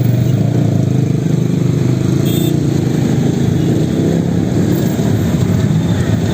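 Steady, loud running of motor vehicle engines in road traffic, with a brief high-pitched squeak a little over two seconds in.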